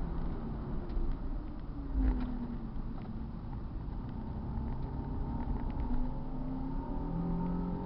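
Car engine under way at track speed. Its pitch rises and falls repeatedly as the driver accelerates, lifts and shifts, over a constant rumble of road and wind noise.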